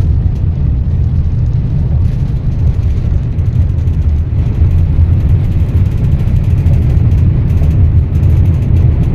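High-speed passenger train running at speed: a loud, steady low rumble.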